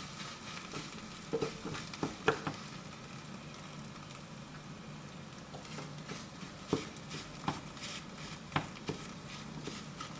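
Food sizzling in a pan while it is stirred, with a utensil knocking against the pan a handful of times.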